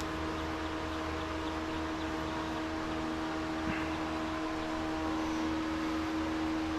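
Electric shop fan running steadily: a constant whooshing hum with a steady tone in it.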